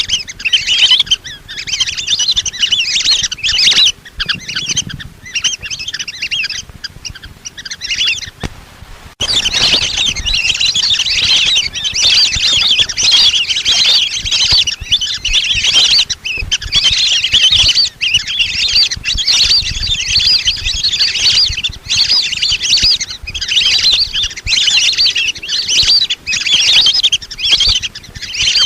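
A flock of lesser whistling ducks calling: dense, continuous high whistling chatter, played as a hunting lure call. It thins out for a few seconds, then comes back abruptly at full strength about nine seconds in.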